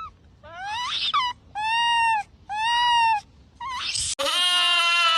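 A monkey calling: several short, clear, pitched calls, the first rising and the next two held level. Near the end comes a louder, longer call with a wavering pitch.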